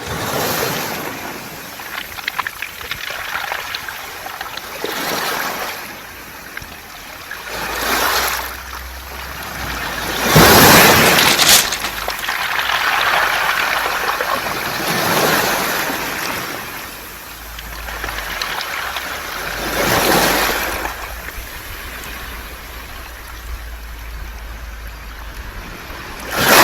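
Waves washing up a beach of smooth round pebbles (mongdol), rolling and rattling the stones as they surge in and draw back. The surges swell and fade every few seconds, the loudest about ten seconds in.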